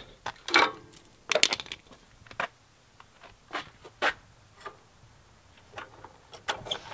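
Irregular knocks and clanks, some in quick clusters, as metal parts are handled at a freshly welded exhaust hanger.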